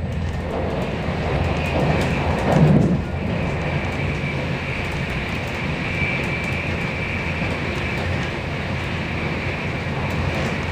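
Passenger train running along the track, heard from inside the carriage: a steady low rumble with a faint, steady high whine, and a brief louder swell about two and a half seconds in.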